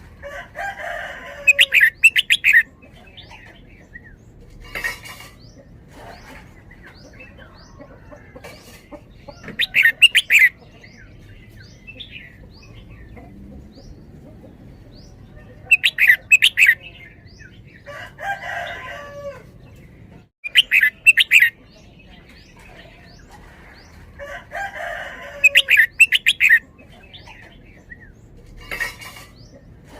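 Caged red-whiskered bulbul singing: loud, short phrases of quick, doubled notes, repeated every few seconds, with faint chirps between the phrases.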